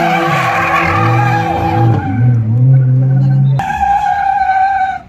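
A drift car's tyres squeal steadily through a slide while its engine revs up and down underneath. The sound changes abruptly partway through and cuts off sharply at the end.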